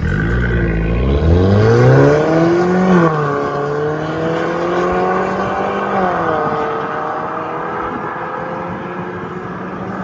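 Mercedes-Benz A180's 1.6-litre turbocharged four-cylinder running through an MS-R valved cat-back exhaust, pulling under acceleration. The pitch climbs for about two and a half seconds and drops at a gear change. It then rises more gently, dips again about six seconds in, and holds fairly steady.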